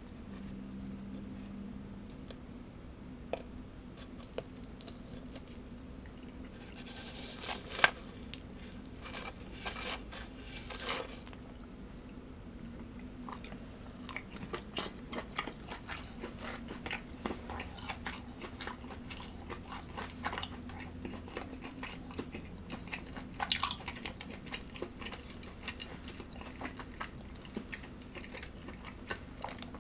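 A person chewing and crunching food close to the microphone, with irregular crisp crunches and small clicks of bites and mouth noises, the loudest crunches a few seconds in and again past the middle.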